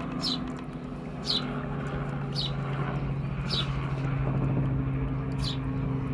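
A bird repeats a short, high, falling chirp about once a second over a steady low hum.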